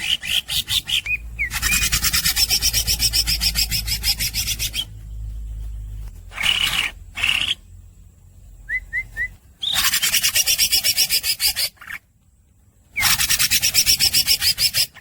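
Cucak ijo (green leafbird) singing in long runs of rapid, harsh rasping notes, several bursts broken by short pauses, with a few brief rising whistled notes near the middle.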